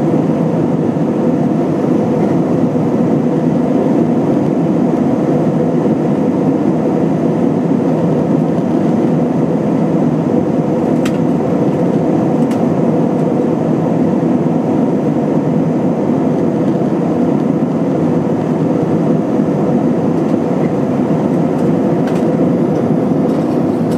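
Steady cabin roar of an Airbus A320-232 in flight, from its IAE V2500 engines and the airflow over the fuselage, heard from a passenger seat, with a faint steady hum through it. Two faint clicks come about halfway through.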